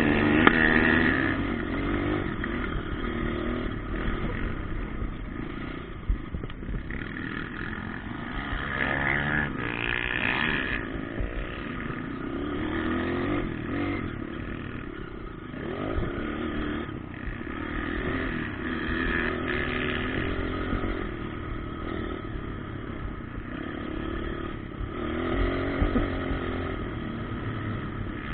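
Motocross bikes running on a dirt track, their engines revving up and down, with loudness swelling and fading as they pass.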